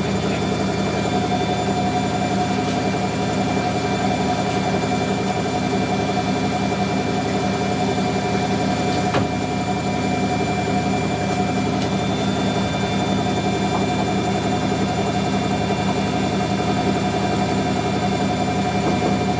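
Hoover Electron 1100 washing machine running, a steady motor hum with a steady higher whine and a faint regular beat.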